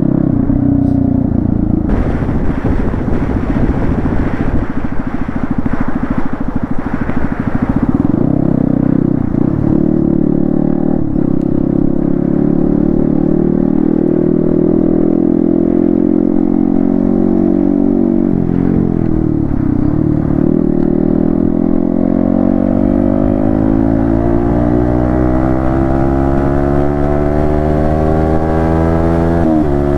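Yamaha MT-15 V2's single-cylinder engine through an Akrapovic exhaust, under way and changing pitch with the throttle and gears. The pitch dips about two-thirds through, then climbs steadily for the last third before dropping suddenly at a gear change near the end.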